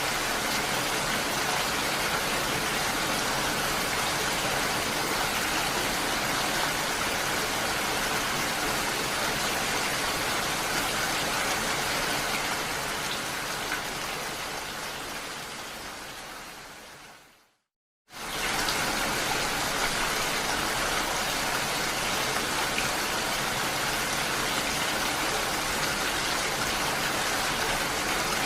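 Steady rain, an even hiss of falling drops, fades out over several seconds to a brief moment of silence about two-thirds of the way in, then starts again suddenly at full level, like a looped rain recording restarting.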